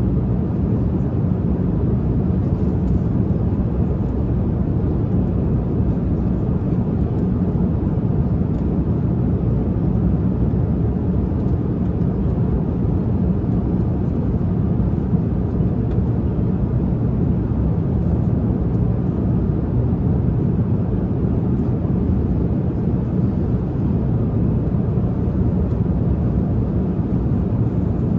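Steady low roar of a jet airliner's cabin in cruise, an even drone of engine and air noise with no change.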